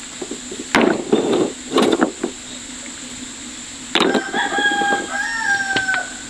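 A few knocking blows in the first two seconds, then a rooster crowing once, a single crow of about two seconds that starts about four seconds in.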